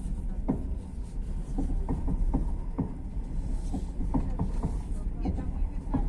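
Passenger train running: a steady low rumble with irregular knocks and clicks.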